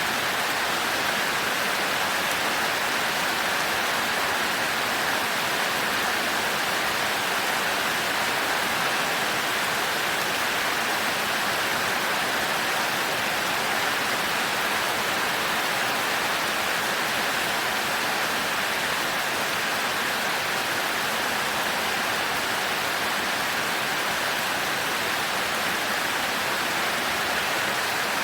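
Heavy rain falling steadily, an even hiss with no thunder and no breaks.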